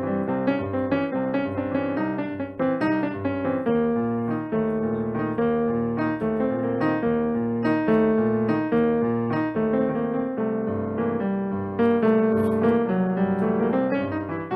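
Piano playing a continuous stream of notes over repeating bass notes.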